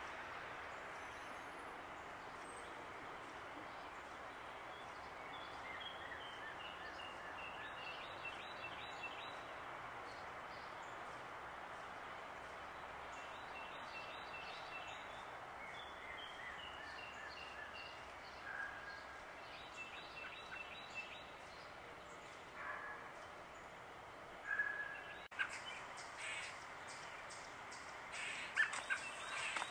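Birds calling outdoors over a steady background hiss. A run of short notes falls in pitch twice, and louder, sharper calls and a single click come in the last few seconds.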